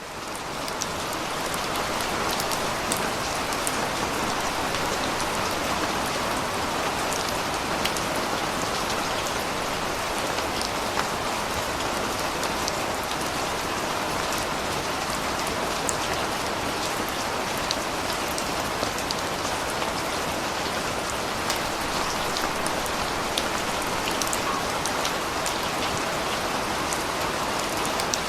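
Steady rain falling, with many individual drops pattering on surfaces over a dense, even hiss. It fades in over the first second or so, then holds steady.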